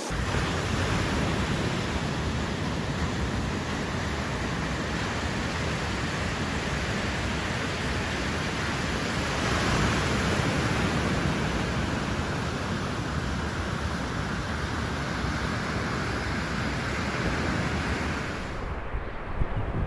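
Steady rush of ocean surf mixed with wind noise on the microphone; the hiss thins out near the end.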